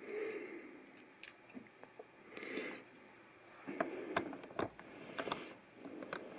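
Plastic LEGO pieces being handled and pressed together: a scatter of small sharp clicks, most of them about four to five and a half seconds in, with a few short rustles.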